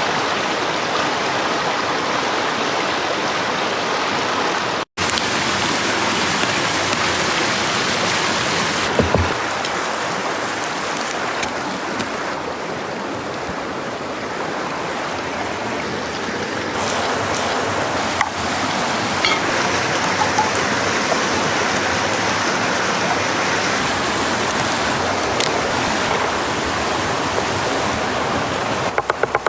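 Steady rushing of flowing water, like a stream, broken by a brief cut to silence about five seconds in, with a few faint clicks later.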